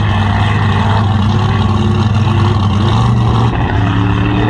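Mega truck engine running loudly at a steady speed, its pitch stepping up a little about three seconds in.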